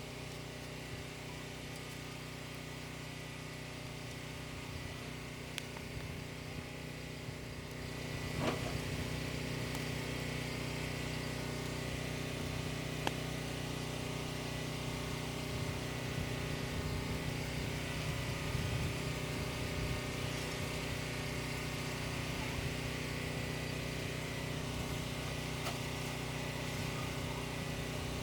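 A small engine running steadily, a constant hum with even overtones that gets somewhat louder with a sharp click about eight seconds in.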